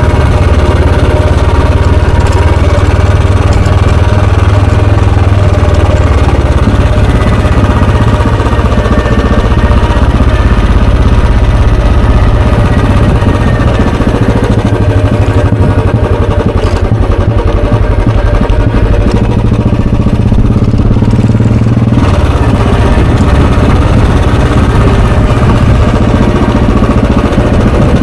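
Royal Enfield Bullet 350's single-cylinder, four-stroke, air-cooled engine and exhaust running under way with a steady low thump. About three quarters of the way in, the sound thins for a couple of seconds, then picks up again abruptly.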